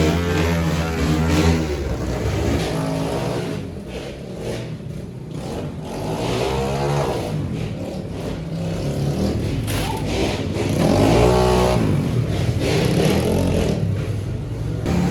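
Pit bike engines revving hard, the pitch climbing and falling again several times, with a lull about four seconds in.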